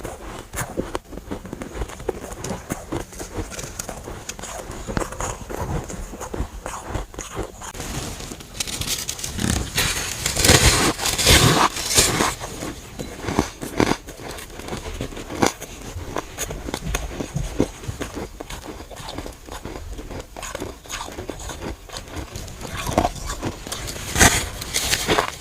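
Biting and chewing of freezer frost chunks: a steady run of crisp crunches and crackles, densest and loudest about nine to twelve seconds in and again near the end.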